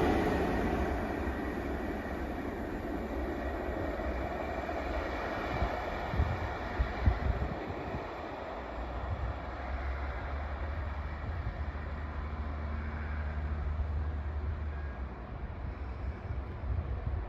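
A train passing on the line, its noise dying away over the first two seconds and then settling into a steady low rumble. A few sharp knocks come about six to seven seconds in.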